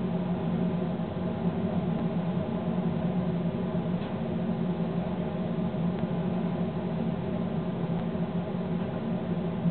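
Steady running noise inside a moving train's cab: a constant low engine hum over the rush and rumble of the train at speed on the track.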